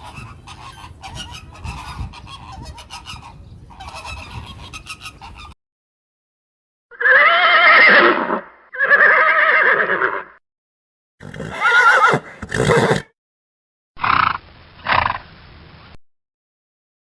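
An animal calling loudly in pairs: two long wavering calls, then two shorter pairs, after a few seconds of low rustling noise.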